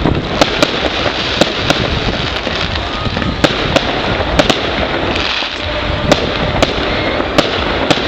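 Fireworks display: a continuous crackle and rumble of bursting shells, with a dozen or so sharp bangs at irregular intervals.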